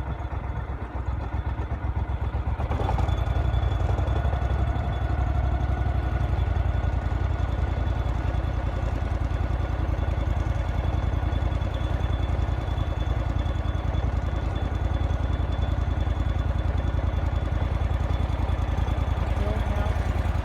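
Boat's outboard motor running steadily under way, picking up slightly about three seconds in and then holding an even drone.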